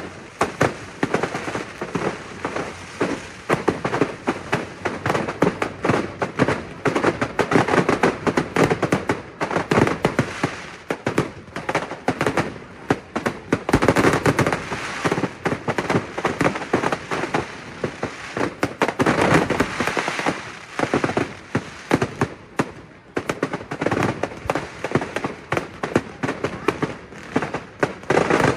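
Aerial fireworks going off in a rapid, continuous barrage of bangs and crackles, with no pause, growing denser and louder about halfway through and again about two-thirds of the way in.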